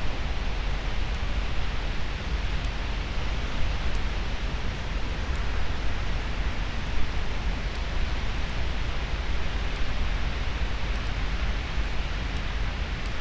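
Steady rushing noise of Pacific Ocean surf breaking on the beach, with wind rumbling on the microphone.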